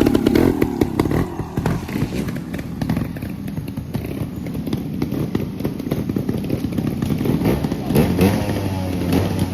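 Trials motorcycle engine running and being blipped, with knocks and clatter throughout. The engine revs up, its pitch rising, about eight seconds in.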